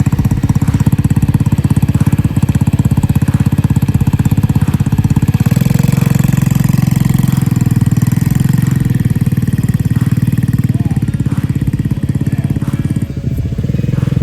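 Mini bike's small engine running with a fast, even putter, picking up for a few seconds in the middle as the throttle opens, then easing back.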